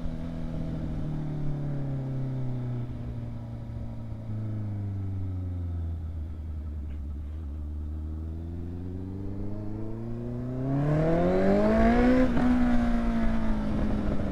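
Honda CBR650 inline-four motorcycle engine through an aftermarket exhaust, revs falling slowly for several seconds as the bike coasts off throttle, then rising sharply under acceleration about eleven seconds in and easing off again near the end.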